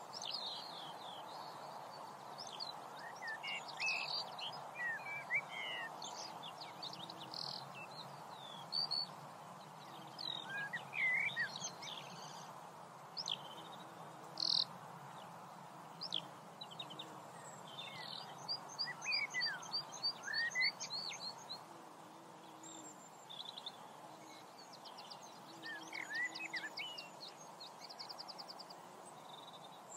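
Several small birds singing and calling together: quick chirps and short downward-sweeping whistles, with a fast trill at about 18 seconds and another near 25 seconds. A steady hiss of outdoor ambience runs beneath them.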